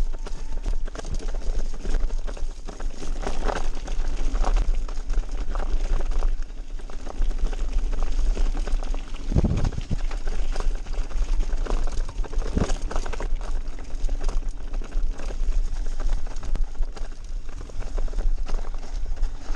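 Mountain bike rattling and knocking over a rough, muddy downhill trail, with frequent short clatters from the frame and chain and two heavier thuds partway through. A steady low wind rumble runs underneath on the action-camera microphone.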